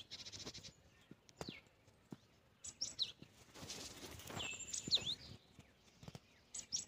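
Songbirds chirping: short high whistled notes that sweep downward in pitch, repeated every second or so, with a brief burst of noise a little past the middle.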